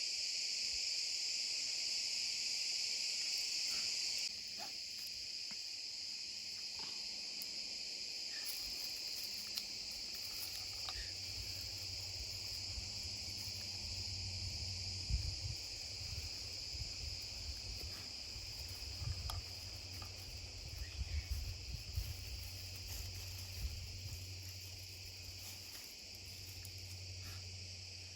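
Crickets chirring in a steady high-pitched chorus that drops in level about four seconds in. Scattered soft clicks and low thumps come in over the second half.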